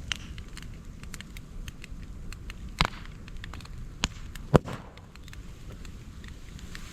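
Moso bamboo burning in an open fire: steady crackling with scattered clicks, and three loud sharp pops about three, four and four and a half seconds in.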